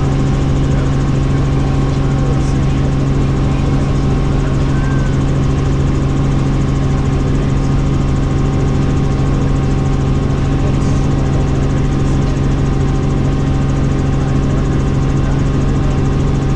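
Helicopter in steady flight: the constant drone of its turbine engine and rotors, a deep steady hum with higher whining tones that do not change.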